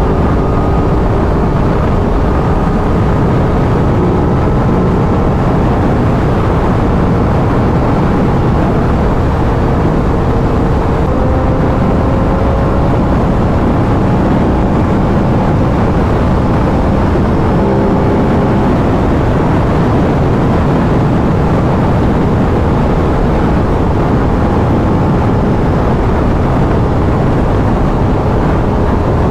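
2023 Aprilia RS 660 parallel-twin on its stock exhaust, cruising at a steady highway speed. The engine note sits under a heavy, even rush of wind and road noise, with only slight changes in pitch.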